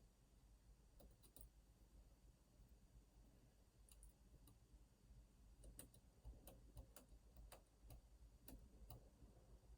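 Faint, irregular clicks and ticks of lockpicking tools working the pins of an Opnus TEX lock cylinder, growing more frequent about halfway through, over a low steady room hum.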